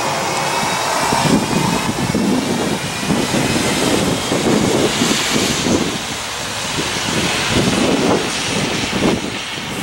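Rumbling, wavering roar of an approaching passenger train with an EMD F59PH diesel locomotive, heard between horn blasts; the tail of a horn blast fades out in the first second.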